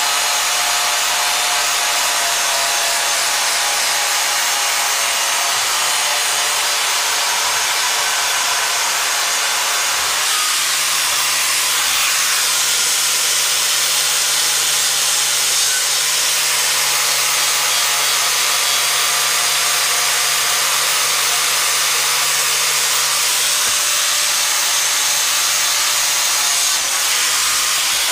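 Electric grinder running continuously, cleaning metal down to bare steel ahead of welding. The steady whine and grinding noise hardly change.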